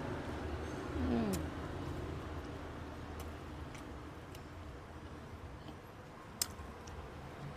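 Steady low hum of nearby road traffic, with one sound falling in pitch about a second in. Scattered small clicks run through it, the sharpest near the end.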